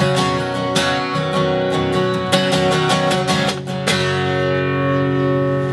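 Acoustic guitar strumming the closing chords of a country song, a few strums and then the last chord left ringing for the final couple of seconds.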